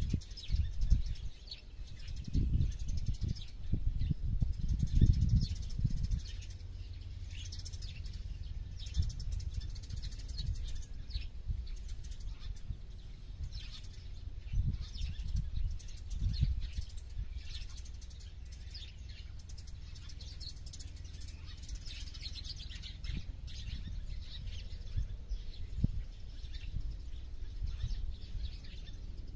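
Many small birds chirping and twittering in quick, high calls, over a low rumble that comes in loud gusts for the first six seconds and then settles into a steady low hum.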